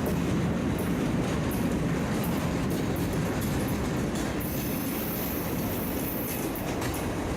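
Freight train cars rolling past: a steady rumble of wheels on rail with faint clicks at the rail joints. A high hiss joins in from about four and a half seconds to six and a half.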